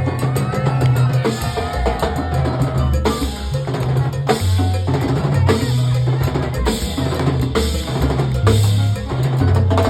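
Latin dance music with timbales played in a busy pattern of shell and rim strikes over a steady bass line and other percussion.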